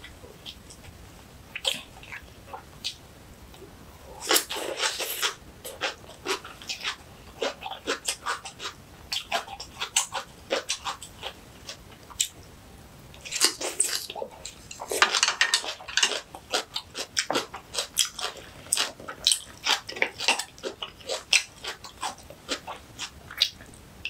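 Close-miked chewing and crunching of crisp kimchi (cucumber and young radish stalks), wet and crackly. The bites come thick a few seconds in and again around the middle, with steady chewing clicks between.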